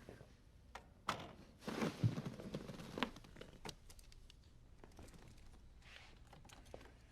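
Faint handling noise: scattered sharp clicks and rustling, with a louder rustle about two seconds in.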